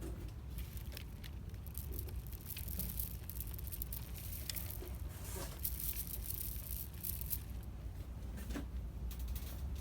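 Shop ambience: a steady low hum under scattered light clicks and rustles, as of merchandise and packaging being handled.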